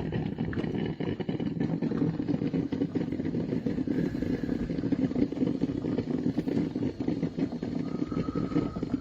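Hamilton Beach 2-Way drip coffee maker brewing, with a steady rumbling gurgle and irregular crackle.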